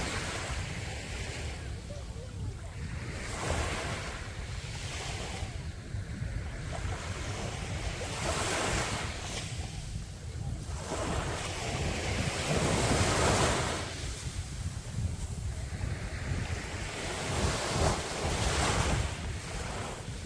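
Sea waves breaking and washing onto a beach, the surf swelling and fading several times, loudest a little past the middle.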